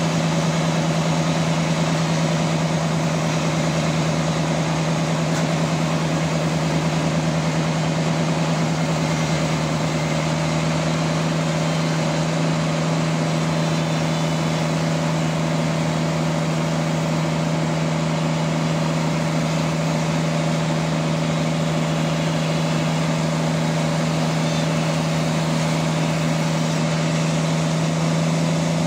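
Band sawmill running steadily with a constant low hum and a wash of mechanical noise, no change in speed throughout.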